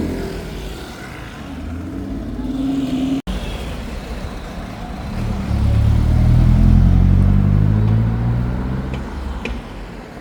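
Car engine accelerating past on a city street, its note rising gently and loudest midway through, then fading away. A sudden cut in the sound about three seconds in.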